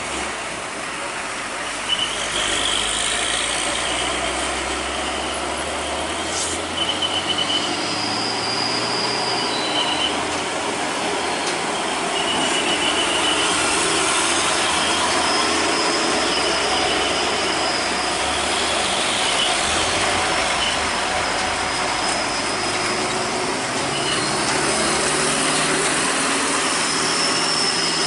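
Heavy trailer truck working through a bend: diesel engine running low under loud road noise, with repeated short high-pitched squeals and a thin whine from time to time. There are a few sharp knocks near the start.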